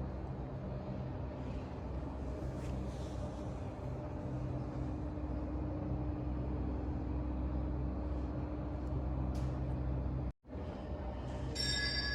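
Steady low droning hum with a few faint steady tones, room noise of a large indoor hall; it drops out abruptly for a moment about ten seconds in.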